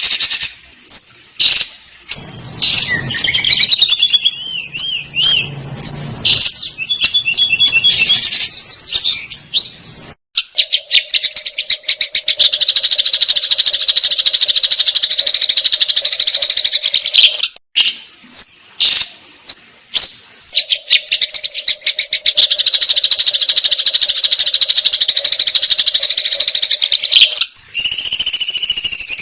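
Sparrows chattering in fighting calls. Sharp chirps and a warbling phrase come in the first few seconds, then two long runs of fast repeated chirps.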